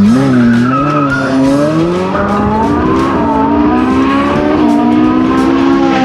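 Ferrari 458's 4.5-litre V8 running under throttle, its engine note rising over the first two seconds, dipping briefly about three seconds in, then climbing again.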